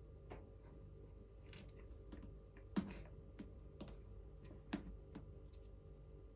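Kittens tussling at play: scattered light taps and scuffles of paws and claws, with two louder knocks a couple of seconds apart near the middle.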